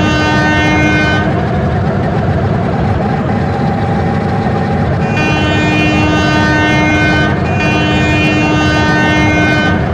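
Train horn sounding over the steady loud rumble of a moving train: one blast ends about a second in, then two long blasts follow from about five seconds in.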